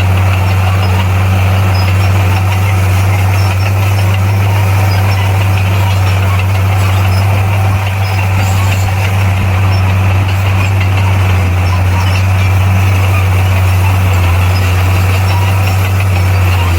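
Heavy diesel engine of earthmoving equipment running steadily at a constant speed, a loud low hum that does not rev up or down.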